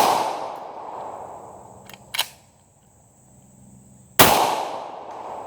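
Hi-Point .45 ACP pistol firing two shots about four seconds apart, each a sharp bang with a long fading echo. A short, sharp crack sounds about two seconds in, between the shots.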